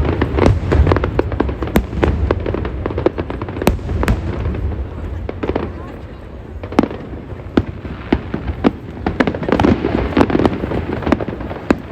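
Aerial fireworks going off in quick succession: many sharp bangs and crackles over a low rumble. They thin out around the middle and grow denser again near the end.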